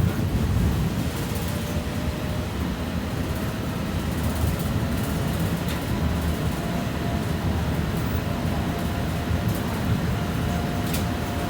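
BKM 60102 tram running along the track, heard from aboard: a steady low rumble with a faint motor whine and a few light clicks from the wheels on the rails.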